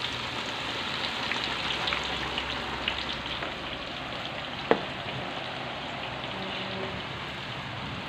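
Sliced shallots sizzling in hot oil in a wok just after they are tipped in: a steady frying hiss with fine crackling. One sharp click about halfway through.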